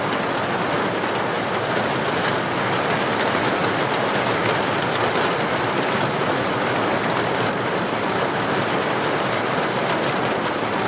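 Heavy rain falling steadily on a paved street: a dense, even hiss with no thunder heard.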